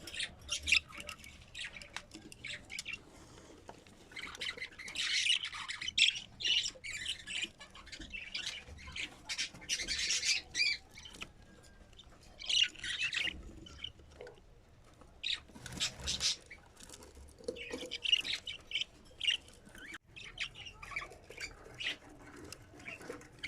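Budgerigars chattering and squawking in short, irregular bursts, louder now and then.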